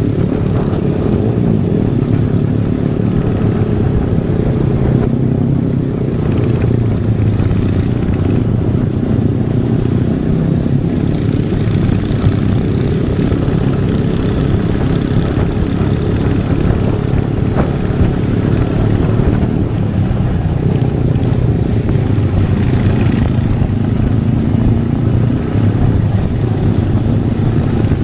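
Royal Enfield Hunter 350's 349 cc single-cylinder engine and exhaust running steadily under way, at an even pace with no sharp revving.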